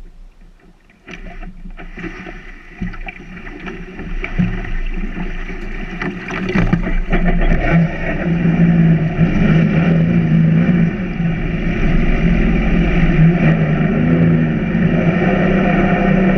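Sea-Doo personal watercraft engine running at low speed as it pulls away, coming in strongly about seven seconds in, its pitch wavering a little with the throttle. A few knocks come first.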